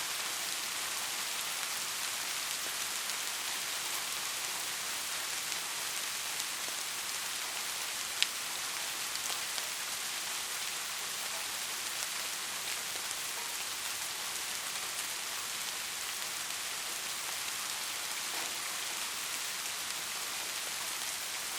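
Steady rain, an even hiss without let-up, with one sharp tick about eight seconds in.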